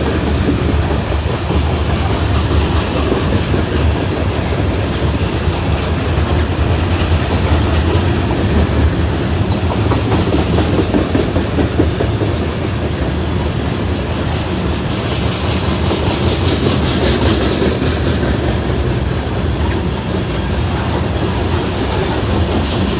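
Freight cars of a slow-moving Norfolk Southern grain train rolling by, a steady rumble with the wheels clacking over the rail joints. A stretch of stronger hiss comes about two-thirds of the way through.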